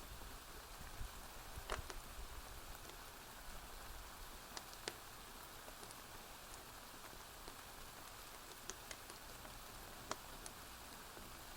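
Steady rain falling, with a few sharp, scattered pops from a crackling wood fire.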